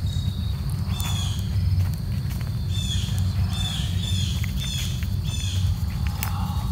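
A bird calls over and over in short high calls over a steady low rumble, with scattered crunching footsteps on a woodland trail.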